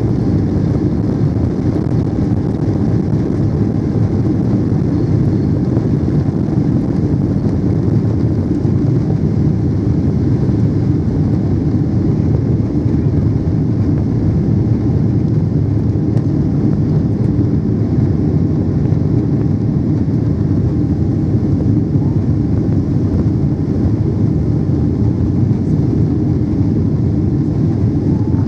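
Steady rumble of a Boeing 777-300's engines and airflow heard inside the passenger cabin, even and unbroken throughout, strongest in the low range.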